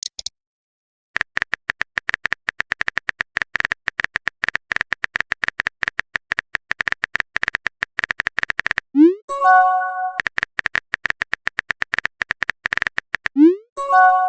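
Rapid, irregular electronic typing clicks, each a short high tick, run for several seconds, then a quick rising swoop and a short chord-like chime. The typing starts again and ends in a second swoop and chime near the end. This is a chat-app sound effect of a message being typed and sent.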